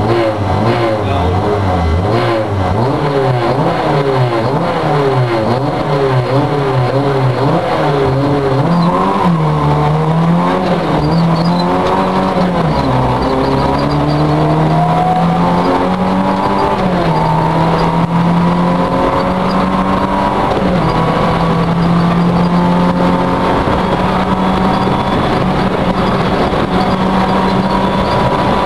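Citroën Saxo rally car engine, heard from inside the cabin, accelerating hard away from a standstill. Its revs rise and drop in quick succession through fast gear changes, then climb in longer, higher pulls at speed.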